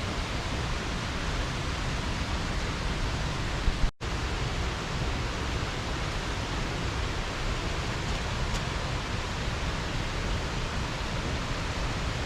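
Steady rush of water pouring over a small river dam, an even hiss with no distinct notes. It cuts out for an instant about four seconds in.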